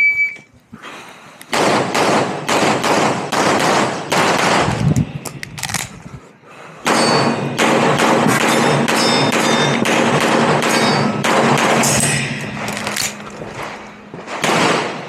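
A shot timer's start beep, then rapid semi-automatic pistol fire in fast strings of shots as a competitor shoots an IPSC stage. The firing slackens briefly about six seconds in, then resumes and continues near the end.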